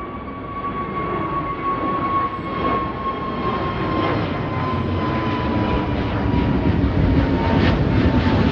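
Jet airliner's engines on a departure, a loud rushing noise with a high whine that slowly falls in pitch, growing louder toward the end.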